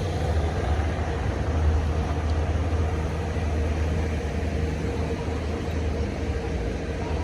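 Hino truck's diesel engine running steadily, a low drone with road noise over it.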